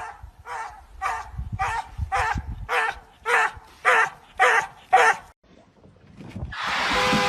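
A dog barking repeatedly, about one bark every half second for some five seconds, the barks growing louder. Near the end comes a second-long burst of noise.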